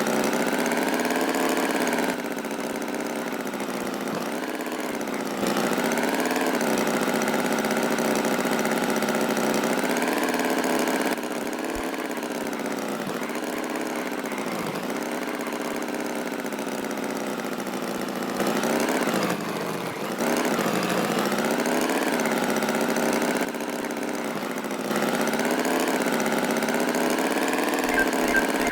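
A tractor engine running, its pitch slowly rising and falling as if revving gently. The loudness steps up and down every few seconds.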